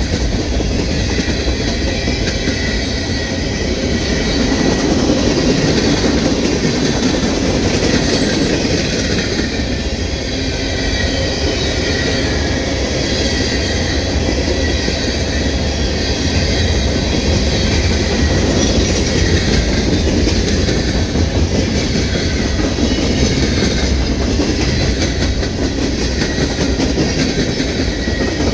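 Freight train cars rolling steadily past at close range: a continuous rumble of steel wheels on rail, with rhythmic clicking as the wheels pass over rail joints.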